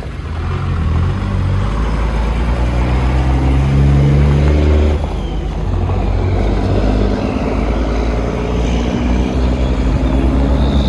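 Cummins diesel engine in a pickup, running through a 7-inch exhaust while the truck accelerates. Its pitch climbs for about four seconds, drops sharply about five seconds in, then climbs again more gently.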